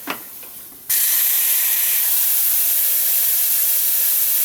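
Pressurized nitrogen being vented from a dehumidifier's refrigeration system after a pressure test. There is a brief knock, then about a second in a loud, steady hiss starts abruptly as the gas is released.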